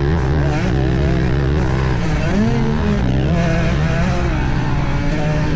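Motocross dirt bike engines racing at close quarters, heard from on board. The rider's bike rises and falls in pitch with the throttle, and a second bike close by overlaps it at a different pitch.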